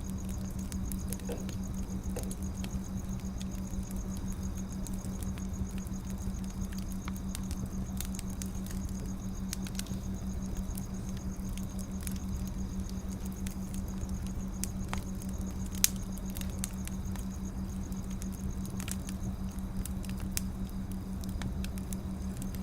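Wood fire crackling, with irregular sharp pops and snaps over a low rumble, one louder pop about two-thirds of the way through; a steady low hum runs underneath.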